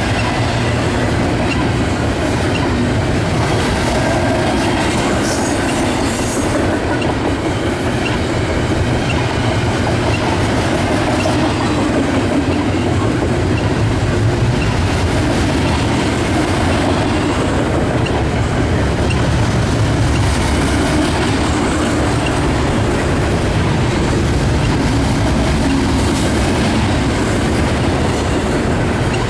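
A passing train's cars rolling by at a steady loud level, the wheels clacking over the rail joints in a continuous rumble.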